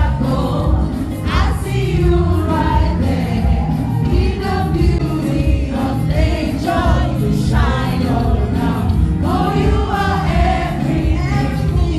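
A choir singing a gospel praise song, with instrumental backing and a strong bass line.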